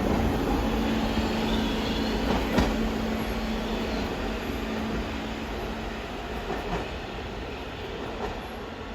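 New York City subway train running past and away, its wheels clattering over rail joints with a few sharp knocks, the sound fading steadily as it leaves.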